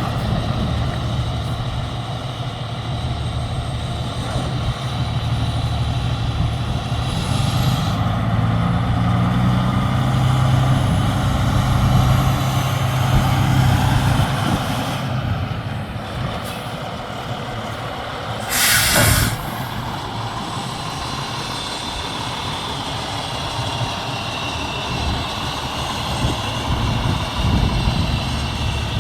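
Diesel engine of a Freightliner Columbia semi truck running steadily. About two-thirds of the way through there is a short, loud hiss of released air, like an air brake.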